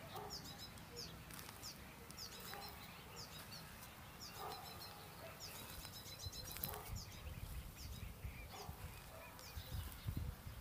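Small birds chirping: short, high, falling chirps repeated about twice a second, with quick twittering runs around the middle, over a faint low rumble that grows in the second half.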